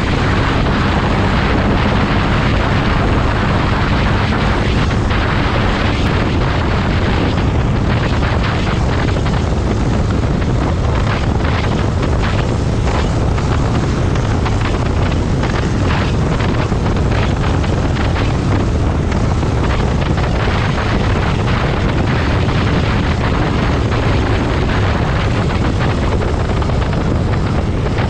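Motorcycle riding at steady speed: the engine runs under a constant roar of wind on the microphone.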